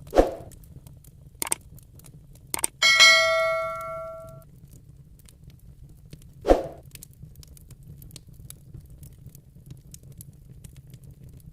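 Wood fire crackling with faint scattered pops, broken by two dull knocks and, about three seconds in, a metallic clang that rings with several clear tones and dies away over about a second and a half.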